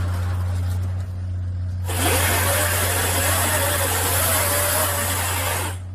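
Machinery running with a steady low engine hum; about two seconds in a louder hissing, whining machine sound starts abruptly and cuts off just before the end.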